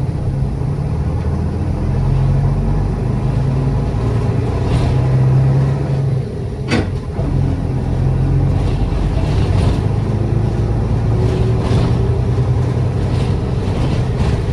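City bus engine running as the bus drives, heard from inside the passenger cabin, with a steady low hum and the engine note rising a little around ten seconds in. A single sharp click or knock cuts through about seven seconds in, with a few fainter rattles.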